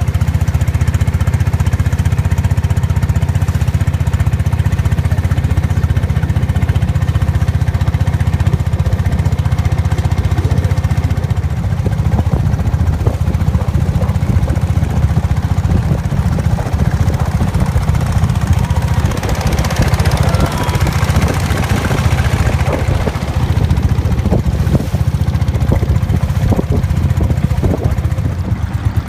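Tour boat's inboard engine running steadily under way, a loud, low, fast-pulsing throb. A hiss of wind and water swells for a few seconds about two-thirds of the way through.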